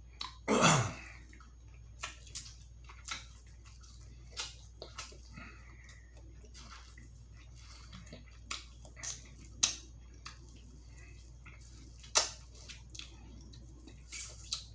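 Close-miked mukbang eating sounds: wet mouth clicks, smacks and crisp bites with pauses between them, as corn and cheese sauce are eaten. A louder sweeping sound comes about half a second in, and sharper snaps follow near the middle and toward the end.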